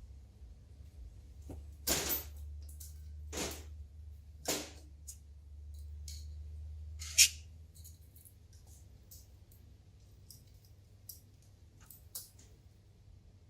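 Parts and hand tools handled during a cylinder head rebuild: a string of sharp clicks and short scrapes, the loudest about seven seconds in, over a faint low hum that stops a little later.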